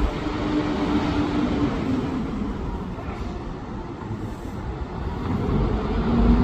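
Bus traffic in the street: one bus engine's steady hum fades away in the first couple of seconds, then another engine grows louder near the end as a vehicle approaches.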